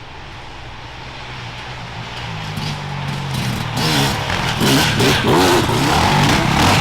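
Off-road enduro motorcycle approaching, its engine growing steadily louder and revving up and down as it nears, with sharp rapid cracks over the last three seconds.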